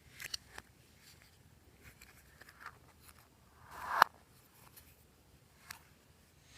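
Glossy slime being stretched and pressed by hand: a few small sticky clicks and crackles, then about four seconds in a squelch that swells and ends in a sharp pop.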